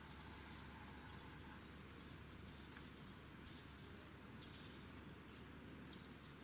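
Faint outdoor ambience with insects trilling steadily in a high pitch, with a few faint short chirps.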